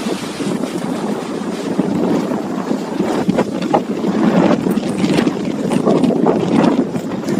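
Strong wind of a tornado roaring and buffeting the microphone. A few short knocks come through from about three seconds in.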